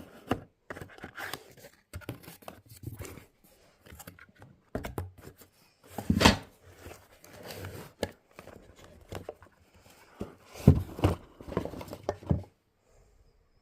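Packaging being handled and opened: irregular rustling, scraping and tearing with short knocks. The loudest knocks come about six seconds in and around eleven seconds, and the handling stops about a second before the end.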